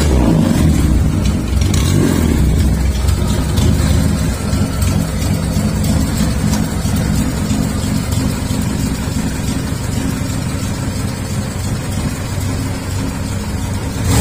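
Classic Holden Commodore SL/X's engine idling, a steady low note that is a little stronger in the first couple of seconds.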